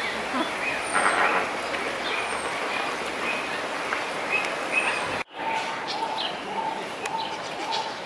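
Birds calling outdoors: scattered chirps over a steady background, then, after an abrupt change about five seconds in, one bird repeating a short note about twice a second.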